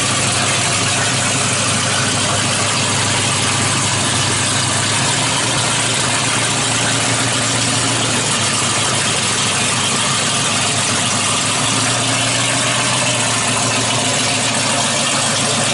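1963 Dodge super stock's 426 Max Wedge V8 with dual four-barrel carburettors idling steadily and loud.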